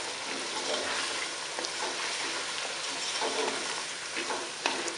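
Chicken pieces in yogurt sizzling in a pot as a spatula stirs the freshly added ground spices through them (the bhuna stage of frying the masala), with a few light knocks of the spatula against the pot.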